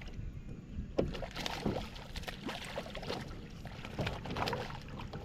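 Irregular knocks and clicks of gear being handled in a plastic fishing kayak, over a low rumble of wind or water.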